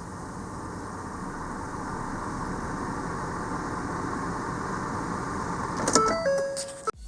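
Ford Explorer's 3.5-litre V6 engine running steadily, slowly growing louder. Near the end it gives way to a short run of stepped electronic tones.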